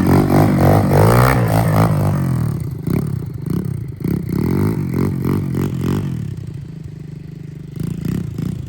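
125cc petrol dirt bike's single-cylinder engine revving up and down in repeated bursts. It is loudest in the first two seconds and settles to a lower, steadier run after about six seconds.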